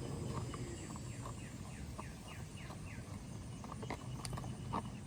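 A bird calling in a quick series of short falling chirps, about four a second, over a steady low rumble.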